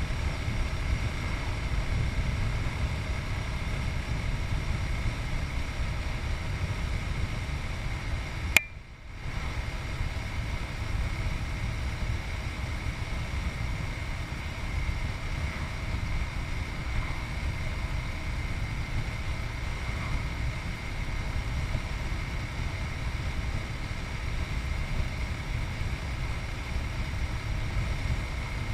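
Riding noise from a Yamaha MT-03 660cc single-cylinder motorcycle under way: steady wind rush and rumble on a chest-mounted action camera's microphone, with the engine running underneath. A single sharp click about a third of the way in, then the sound briefly drops out for about half a second.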